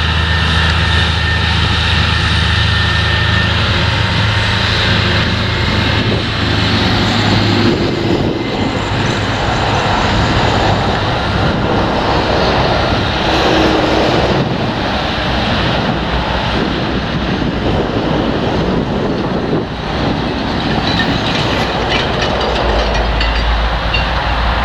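Potato harvesting machinery running loud and continuous: a steady engine hum, then a dense rattling rumble of the machine at work.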